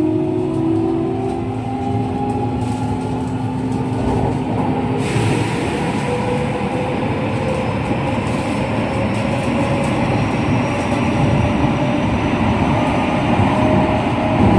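JR West 207 series electric train running, heard from aboard: wheel and rail rumble with the traction motors' whine in several tones, rising in pitch over the first couple of seconds. About five seconds in, the hissing rail noise gets much brighter and stays up.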